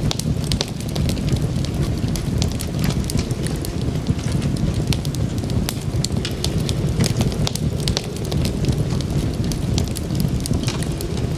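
Wood fire burning in a fireplace: a steady low roar of flames with frequent sharp crackles and pops.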